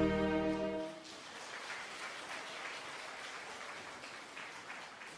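A saxophone ensemble's final held chord, cut off about a second in, followed by light applause.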